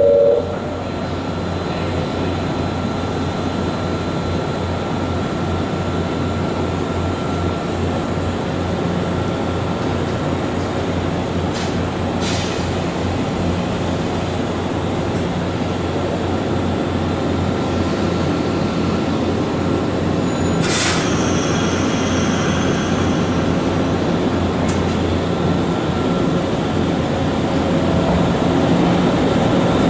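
Nankai electric trains at a station platform: a steady low rumble and hum from a train standing at the platform, broken by two short sharp clanks, then a train moving along the platform near the end, growing louder.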